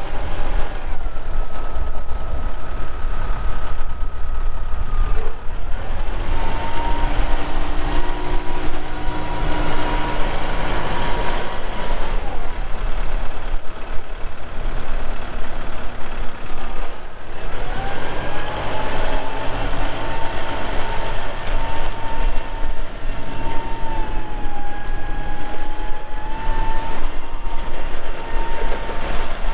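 Kubota M4-071 tractor's four-cylinder diesel engine running, with a steady whine over the engine that shifts to a new pitch a few times as the tractor is operated.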